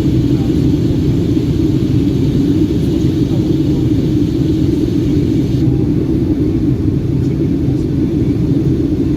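Steady, loud low rumble of a Boeing 757 heard from inside the cabin after takeoff: jet engine and airflow noise. The higher hiss eases slightly a little past halfway.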